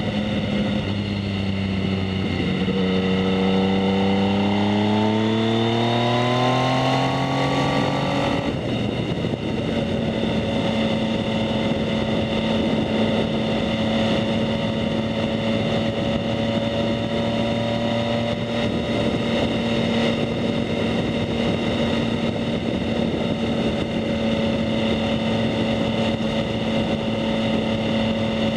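2019 Yamaha MT-09's inline three-cylinder engine through a Two Brothers S1R full exhaust system, heard from the rider's seat. The revs climb steadily for about six seconds under acceleration and drop sharply, then the engine holds a steady pitch while cruising.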